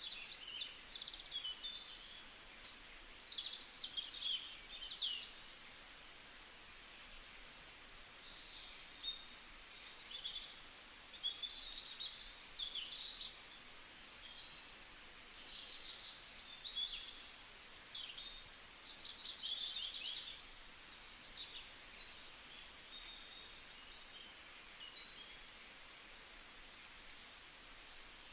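Small birds chirping and singing, many short calls and quick trills overlapping throughout, over faint steady background noise.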